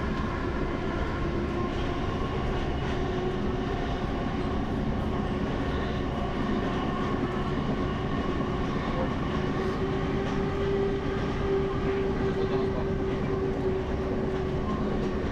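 Passenger train carriage heard from inside while running: a steady low rumble with a humming tone that grows louder for a few seconds about two-thirds of the way through.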